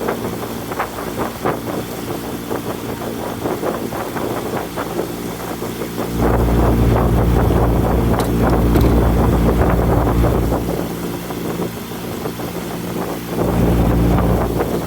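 Motorboat engine running steadily under way, with wind rumbling on the microphone for a few seconds from about six seconds in and again near the end.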